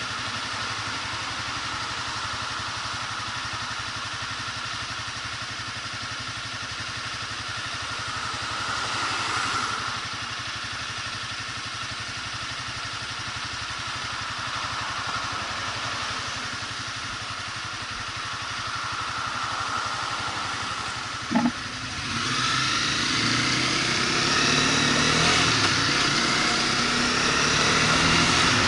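Motorcycle engine running steadily, then pulling away about three-quarters of the way in, louder, its pitch rising and falling through the gears. A brief beep comes just before it pulls away.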